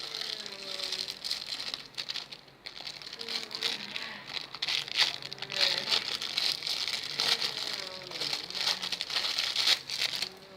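Crinkly, scratchy rustling in irregular spurts, as of things being handled and rubbed.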